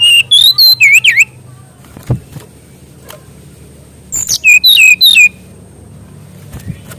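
SRDC songbird (sikatan rimba dada coklat) singing two quick phrases of sharp, sliding whistled notes, one at the start and one about four seconds in, over a faint low hum.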